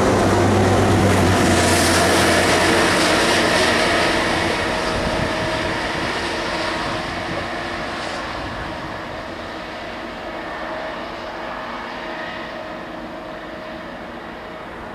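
A Network Rail Stoneblower track machine and a Class 175 diesel multiple unit passing on adjacent lines: diesel engine running and wheels on rail. The sound is loudest in the first few seconds, then fades steadily as they draw away.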